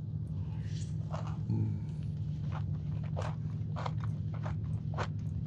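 Close-up chewing of a Crumbl churro cookie with a crunchy cinnamon-sugar outside: short crunches about every half second to second, over a steady low hum.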